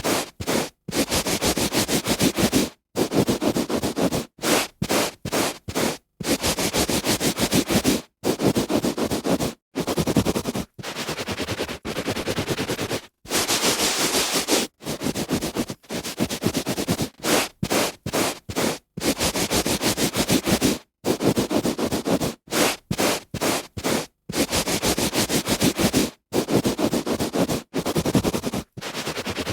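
A hand rubbing back and forth on carpet, a dry scratchy hiss. The strokes last from under a second to a few seconds each, with short breaks between them.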